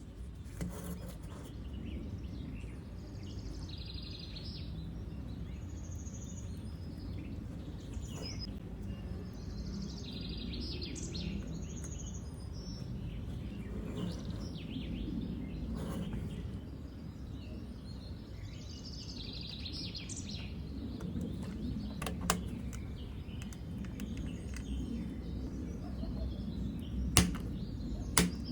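Birds chirping repeatedly over a steady low background rumble, with a few sharp clicks or taps near the end.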